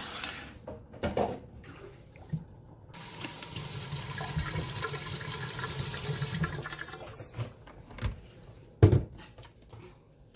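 Water rushing for about four seconds, starting about three seconds in and then stopping. A few knocks come before it and a louder thump near the end.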